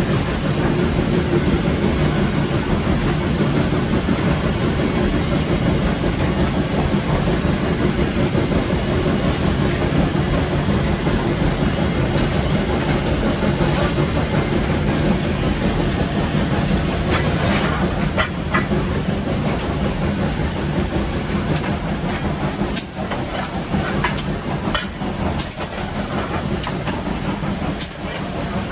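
Nevada Northern No. 81 steam locomotive working up a grade, heard from inside the cab: a loud, steady rush of steam hiss and running noise, joined from a little past halfway by a scatter of sharp clicks and knocks.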